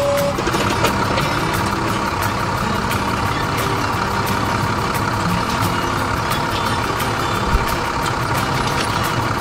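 A heavy vehicle's engine running steadily at idle.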